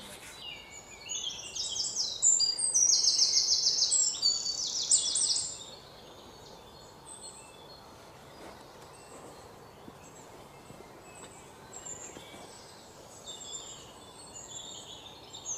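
Birds chirping and singing, with fast high trills that are loudest for a few seconds near the start, then fainter scattered chirps over a soft outdoor hiss.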